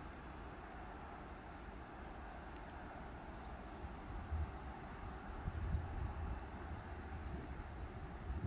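A PESA Elf 2 (EN63B) electric multiple unit is heard at a distance as a steady rumbling hiss of rail running noise, swelling from about four seconds in with irregular low wind buffeting on the microphone. Faint insect chirps repeat throughout.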